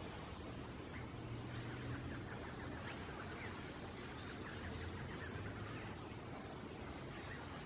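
Small birds chirping in short, scattered calls over a steady high-pitched insect drone and a low background rumble.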